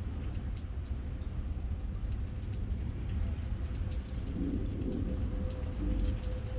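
Rain falling during a thunderstorm, with many separate drops ticking and dripping irregularly close by, over a steady low rumble.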